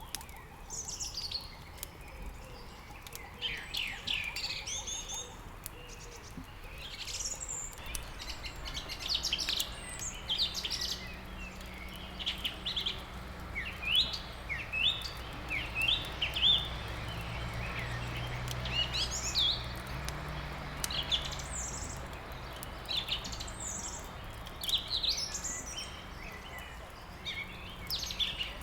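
Many songbirds chirping and twittering in short, quick calls, over faint crackling clicks of a wood fire. A low drone rises in about a third of the way through and fades out again a little past the middle.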